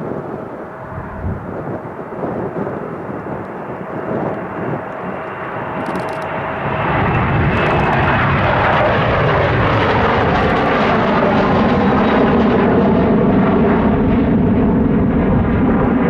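Boeing 737-900ER's CFM56-7B jet engines at takeoff power on departure, growing louder about seven seconds in and then holding a steady rumble with a high whine over it.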